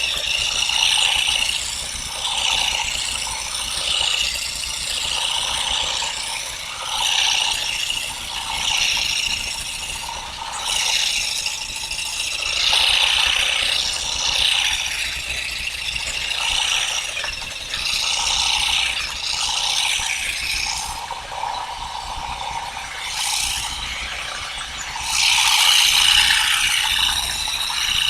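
Continuous ratchet-like rattling and clicking that swells and fades every second or two.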